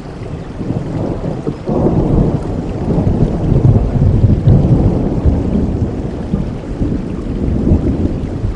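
Steady rainfall with a long roll of thunder that swells about two seconds in and slowly fades away.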